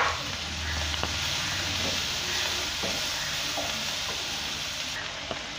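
Chopped onions sizzling in hot oil in a frying pan, a steady frying hiss, with a few short scrapes and taps as a spatula stirs them.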